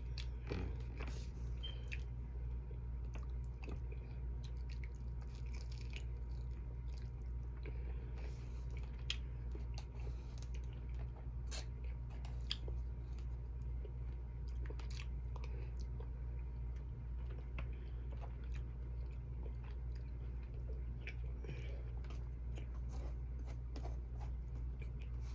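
Close-up chewing and mouth sounds of a person eating baked chicken and rice, with many small sharp clicks scattered throughout, over a steady low hum.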